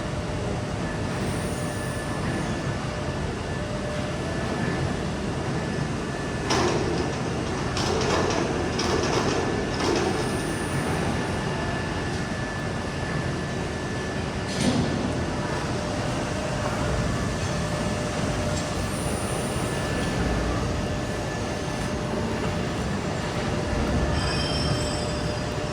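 A 3 kW CNC fiber laser cutting machine running: a steady mechanical hum and hiss with a faint steady whine, broken by a few brief louder bursts of noise about a quarter of the way in and again just past halfway.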